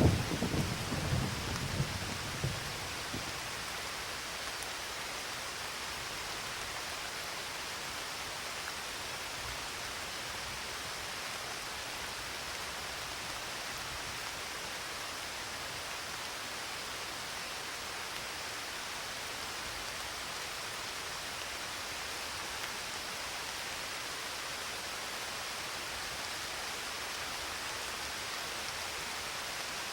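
The tail of a thunder rumble dying away over the first few seconds, then steady rain, an even hiss.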